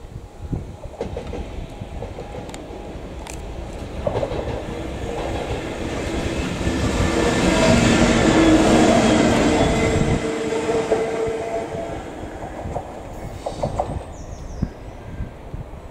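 A train passing through the station, growing louder to a peak about eight seconds in and then fading, with steady engine tones under the rumble of wheels on the rails.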